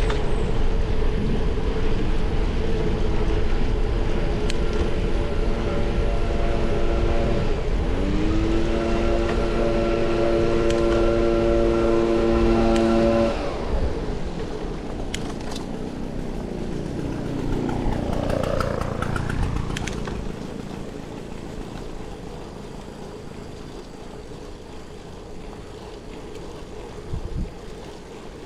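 A motor vehicle engine over wind rush: its pitch rises, drops and rises again as if through a gear change, then cuts off sharply about thirteen seconds in. Briefly a falling pitch goes by, and then only quieter wind noise is left.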